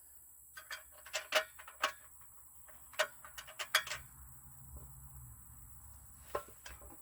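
Small sharp clicks and knocks of bolts, nuts and parts being handled during assembly of a chicken plucker: a quick run of about a dozen in the first four seconds, then two more near the end.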